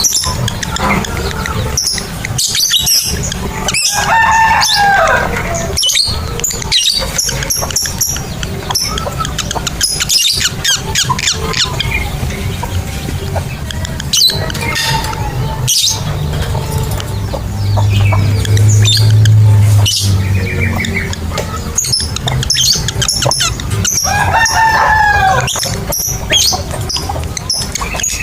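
Lovebirds chattering: a dense run of shrill, rapid chirps and trills. Twice, about four seconds in and again near the end, a lower falling call stands out, and a low hum runs underneath.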